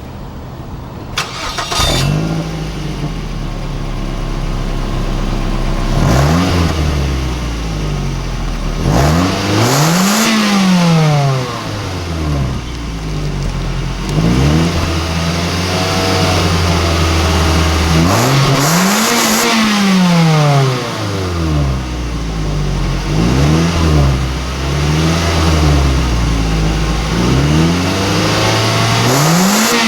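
Stock exhaust of a 2009 Mazda 3's four-cylinder engine, revved repeatedly while standing still. Each rev rises and drops back to idle, with longer pulls in the first two-thirds and quicker blips near the end.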